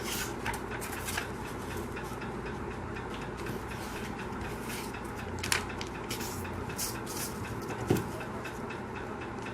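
Sheet of paper rustling and crackling in short bursts as it is handled and creased for an origami boat, over a steady background hum, with a single low thump near the end.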